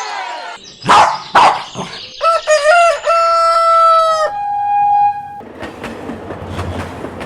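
A rooster crowing in one long held call, after two short harsh calls. A single steady tone follows for about a second, then a steady rushing noise.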